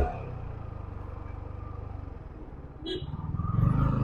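Yamaha R15 V3 motorcycle's single-cylinder engine running low and steady with an even pulse, picking up again in the last half second. A brief high-pitched chirp sounds about three seconds in.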